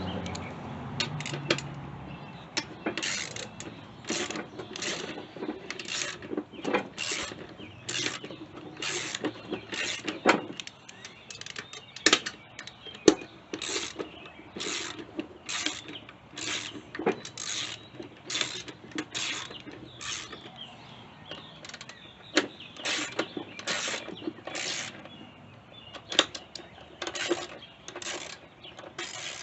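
Socket ratchet wrench worked back and forth in short strokes, a quick burst of clicks about once a second, as the engine's retaining bolts are backed out of a mower deck.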